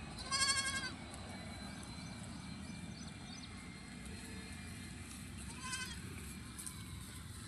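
An animal bleating twice: a wavering call about half a second long near the start, and a shorter one about six seconds in, over a steady low background noise.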